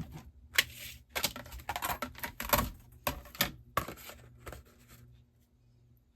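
Cardstock being handled and slid over the back of a card layer: a run of crisp paper crackles and light taps for about four seconds.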